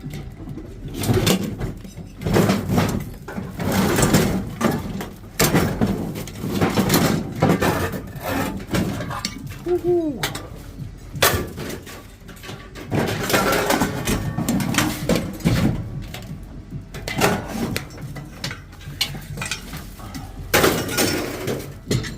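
Scrap metal and household junk being handled and tossed: repeated clanks, clatters and rattles of items knocking together, with a short squeak about ten seconds in.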